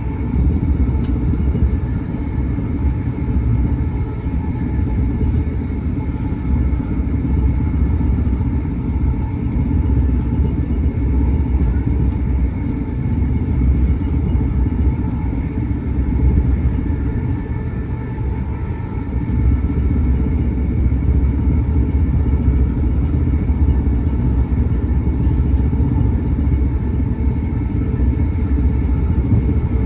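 Inside a c2c electric passenger train running at speed: a steady, loud rumble of the wheels on the track, with faint steady tones above it.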